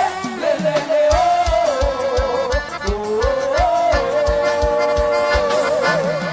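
Forró music: an accordion playing a melody with vibrato over a steady bass drum beat of about three beats a second.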